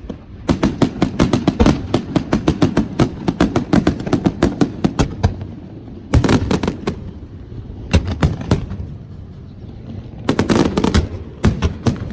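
Fireworks going off: a rapid string of sharp bangs for about five seconds, then further clusters of bangs about six, eight and ten and a half seconds in.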